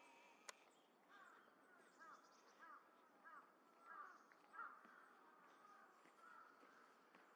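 A crow cawing faintly: a series of short, evenly spaced caws from about a second in until near five seconds. A single sharp click comes about half a second in.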